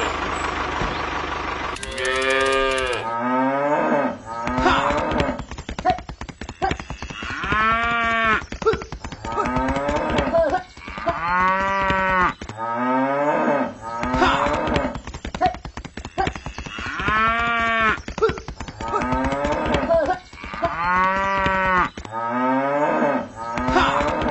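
Cattle mooing over and over, about ten long moos a couple of seconds apart, each rising and then falling in pitch, over a steady crackly background noise.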